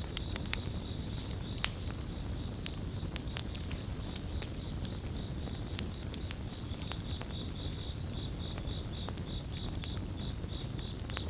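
Campfire crackling, sharp pops and snaps over a low rumble of burning wood, with crickets chirping in a steady high tone throughout; in the second half the cricket song breaks into regular pulses, about three a second.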